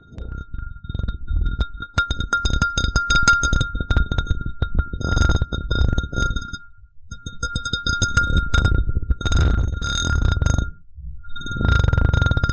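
A glass cup tapped and rubbed close to the microphone: a quick run of clicking taps about two to four seconds in and several stretches of low scraping rub, while the glass rings on one steady high note that breaks off briefly twice.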